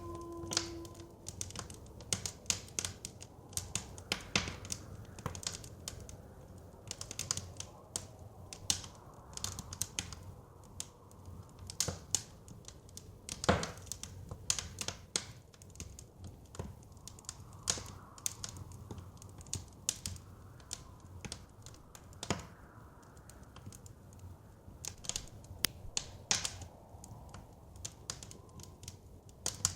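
Wood fire crackling in a fireplace: irregular sharp pops and snaps, several a second with a louder one now and then, over a low steady rumble. A held musical tone fades out in the first second.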